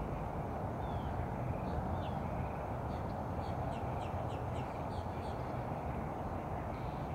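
Small birds calling over a steady low background noise. There are a few scattered high chirps, then a quick run of about eight short, high, falling chirps in the middle.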